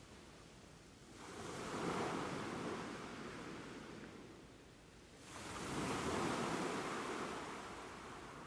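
Ocean waves washing onto the shore: two waves break, about a second in and again past the five-second mark, each rushing in and then fading away.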